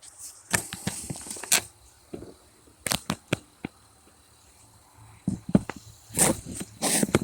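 Irregular clicks, knocks and rattles of hands handling parts and a container, with a couple of short hissy rushes, one about half a second in and one near the end.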